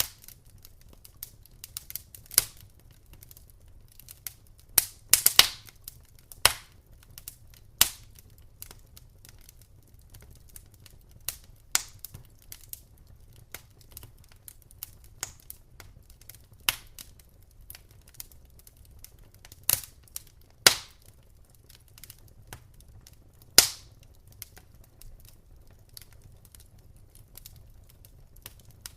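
Wood fire crackling in a fireplace: irregular sharp snaps and pops of burning wood, the loudest about five seconds in, near twenty-one seconds and near twenty-four seconds, over a faint low steady rumble.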